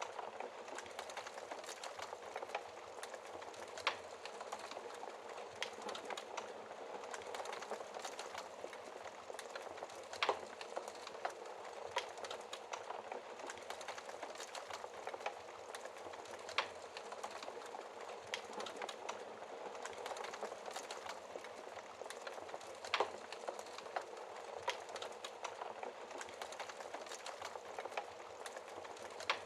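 Wood fire crackling in a fireplace: a steady soft hiss full of small crackles, with a louder pop every few seconds.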